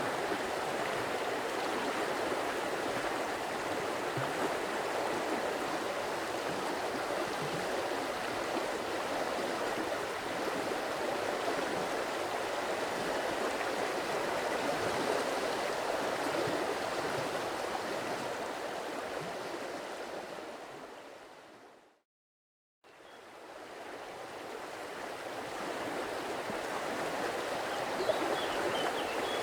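Stream water running, a steady rushing and burbling. About twenty seconds in it fades out to a second of silence, then fades back in.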